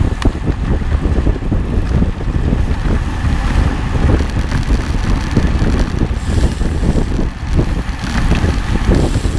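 Loud, steady rumble of wind buffeting the microphone.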